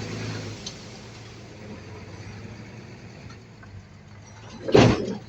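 Bulldozer's diesel engine running steadily at a moderate level, with a short loud bang near the end.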